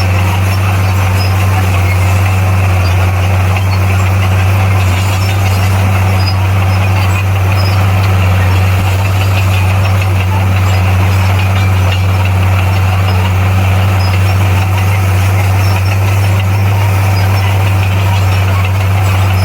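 Bulldozer's diesel engine running steadily, a loud, even low drone with no change in pitch.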